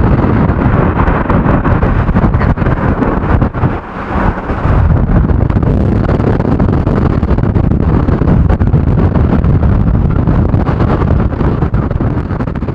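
Strong storm wind buffeting the microphone in loud, rough gusts, with a short lull about four seconds in.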